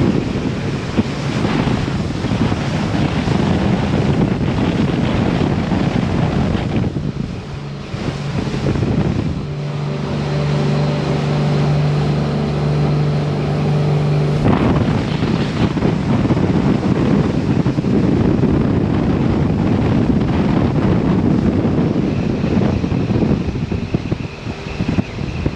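Wind buffeting the microphone and water rushing past a twin-engine Sea Ray 380 Sun Sport cruiser under way. For a few seconds in the middle, a steady engine drone comes through clearly above the wind.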